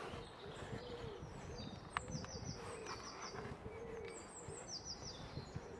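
Small birds chirping: short high notes in quick groups of about three, repeating, with a lower wavering note about twice a second. A faint low rumble runs underneath, and there is one sharp tick about two seconds in.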